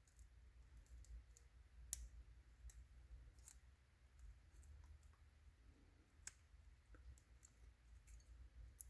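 Small side cutters gripping and working at the nozzle cap of a fuel injector: faint, sharp metal clicks at irregular intervals, the loudest about two seconds in, over a low hum. The cap is resisting because it is welded on.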